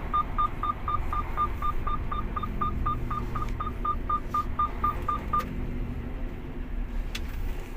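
Electronic warning beeper sounding rapid short beeps, about four a second, that stop about five seconds in, over the low steady rumble of the mixer truck's engine.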